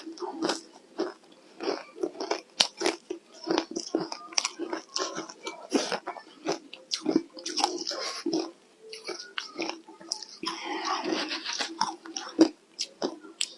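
Close-miked biting and chewing of ice cubes dusted with matcha powder: a rapid, irregular run of sharp crunches and cracks, denser for a moment near the end.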